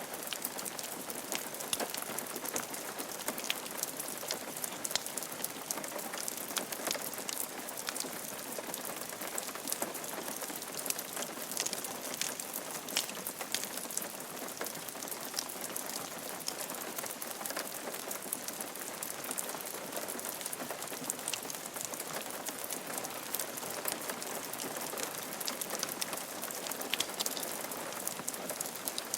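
Steady rain falling on a roof, a continuous patter of many individual drops tapping with no thunder or other sounds.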